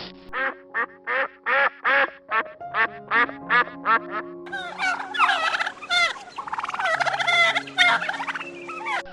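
Ducks quacking in a quick run of short quacks, about four to five a second, turning about halfway into a denser, overlapping chorus of quacking. Background music with held notes runs underneath.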